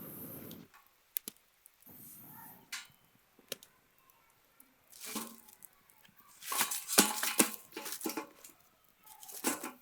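Intermittent small clicks, rustles and scrapes, in short clusters about five, seven and nine and a half seconds in.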